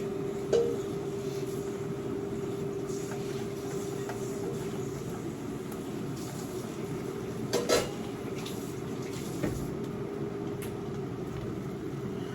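Steady kitchen cooking noise with a constant low hum, broken by a few clinks of a utensil against a pan or dish: one shortly after the start, a quick double clink about three quarters of the way through, and a lighter one a couple of seconds after that.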